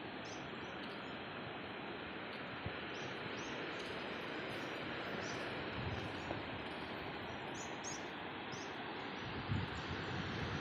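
Steady hiss of rain falling, with a string of short high chirps above it. Near the end, low wind buffeting on the microphone comes in.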